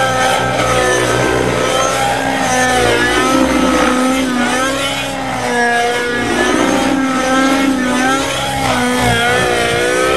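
Small engine of a radio-controlled model helicopter running, its pitch rising and falling repeatedly.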